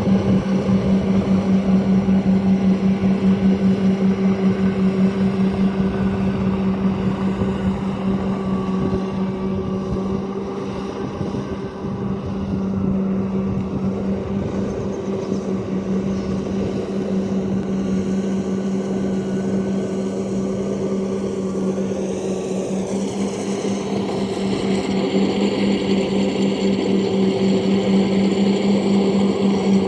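Rice combine harvester running at work: its engine and threshing machinery make a steady, loud drone with a fast pulsing beat. The sound dips briefly about ten seconds in and then builds back up.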